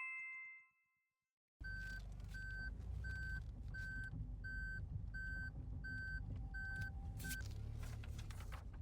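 A vehicle's reverse warning beeper sounds nine short, even beeps about 0.7 s apart over a low engine and vehicle rumble, as a car backs up. A short two-note chime rings out right at the start.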